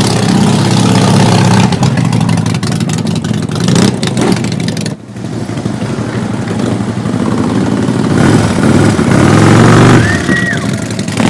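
Motorcycle engines running loud and being revved in short blips, with a longer climb in revs near the end before dropping back. The sound breaks off abruptly about halfway through, where a different bike's engine takes over.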